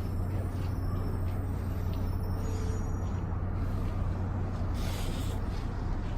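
NJ Transit train at the platform, a steady low engine hum with a short hiss of air about five seconds in.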